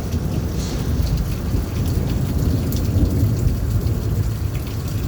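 Rain falling steadily, with drops ticking close by, over a low rolling rumble of thunder.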